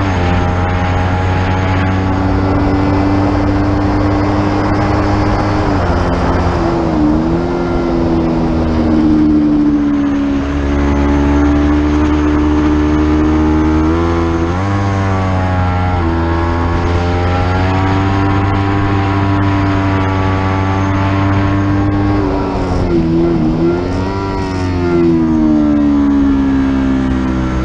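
Racing motorcycle engine heard onboard at speed, running hard with its pitch dipping and climbing again at gear changes about 6, 14 and 23 seconds in, over steady wind rush.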